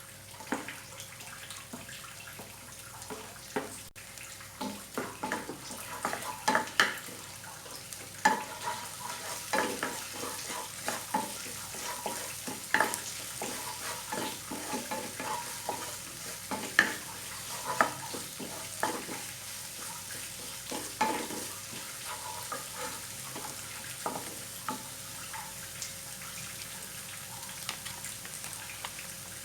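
Stir-frying in a pan: food sizzling with a steady hiss while a spatula stirs it, clinking and scraping against the pan at irregular moments. The stirring thins out near the end.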